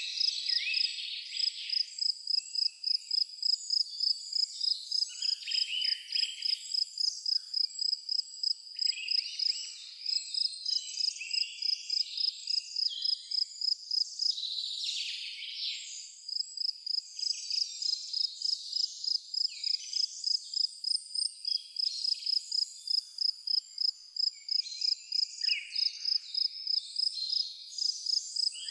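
Crickets chirping in a steady, even rhythm of about two high chirps a second, with several birds singing on and off over them.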